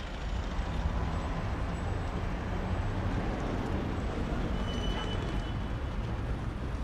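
Steady city traffic noise: a continuous low rumble of passing vehicles.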